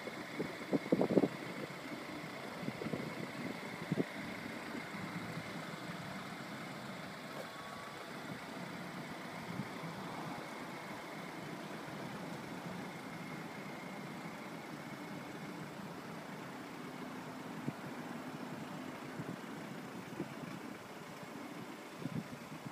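BMW 528i engine idling steadily, with a few short knocks and handling noises in the first few seconds.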